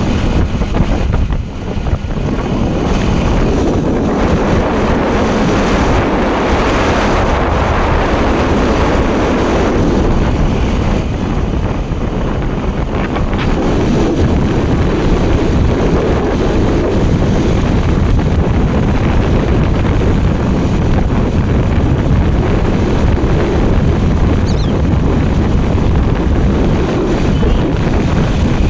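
Wind rushing over the microphone of a camera riding along on a bicycle: a loud, steady noise with a heavy low rumble.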